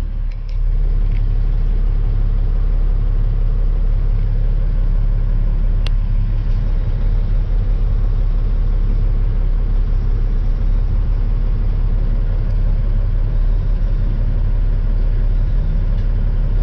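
Dump truck's diesel engine idling steadily with a low rumble.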